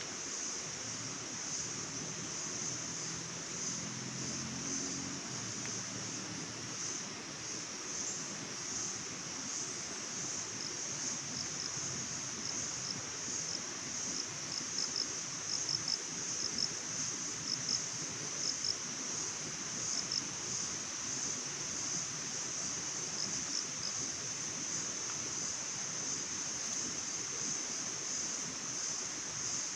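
A steady, high-pitched chorus of insects, crickets or cicadas, over a soft even hiss. About a third of the way in, a run of short chirps joins the chorus and then fades out.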